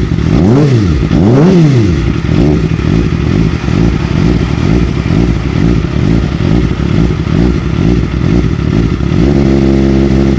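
Kawasaki ZX-25R's 250 cc inline-four blipped twice in quick rising-and-falling revs, then popping and crackling from its exhaust, run without a dB killer, with a steady engine note near the end.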